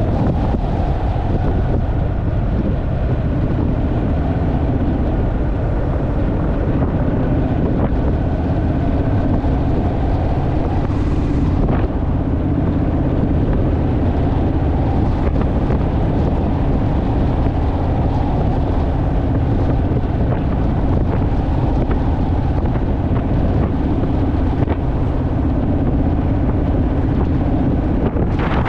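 Honda Rebel motorcycle's parallel-twin engine running at a steady cruising speed, with wind rushing over the microphone.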